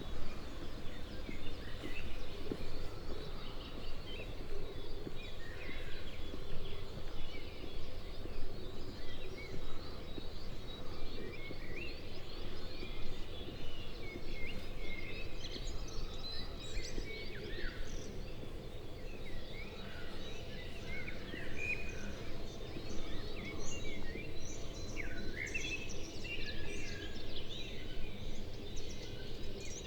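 Small birds chirping and singing, many short overlapping calls and trills that grow busier in the second half, over a steady low background rumble of outdoor ambience.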